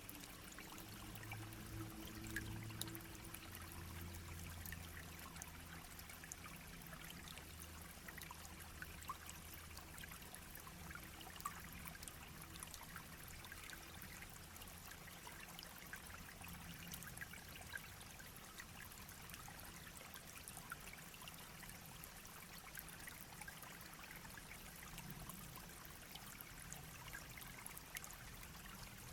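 A shallow brook babbling quietly over stones, a steady trickle dotted with many small irregular plinks and splashes.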